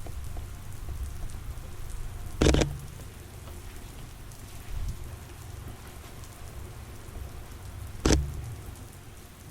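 Steady rain, with two sharp clacks standing out, one about two and a half seconds in and one near the end.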